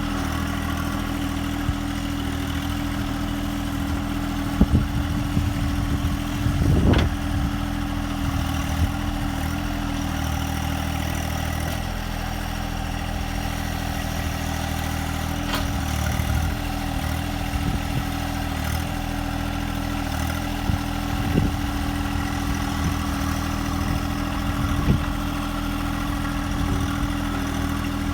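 Engine of a John Deere machine running steadily at a constant speed, with a few short knocks and clunks, a bunch of them about five to seven seconds in and single ones later on.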